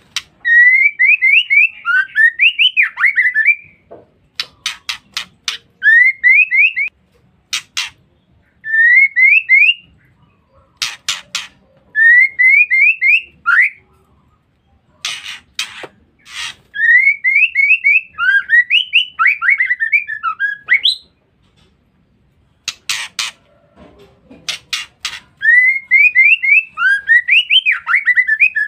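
Female white-rumped shama (murai batu) calling: runs of quick, rising chattering notes, each lasting a few seconds, which bird-keepers call ngeriwik. Between the runs come short clusters of harsh, rasping calls.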